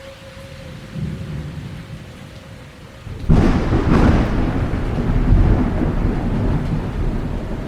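Thunderstorm with steady rain: a low rumble of thunder about a second in, then a loud, sudden clap of thunder a few seconds in that rolls on and slowly fades.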